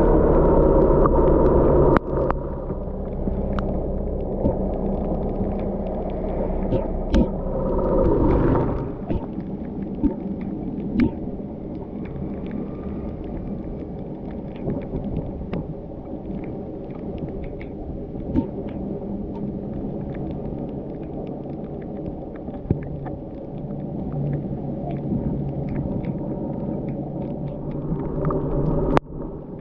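Car being driven on a rainy mountain road: a steady engine and road-noise rumble with scattered light clicks. It is louder for the first two seconds and swells again about eight seconds in.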